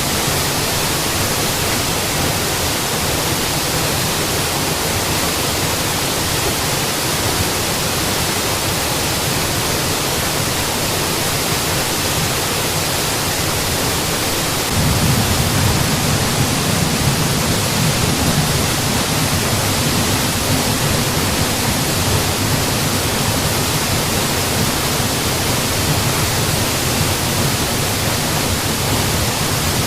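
Mountain waterfall: a steady, even rush of falling water, its low rumble growing a little fuller and louder about halfway through.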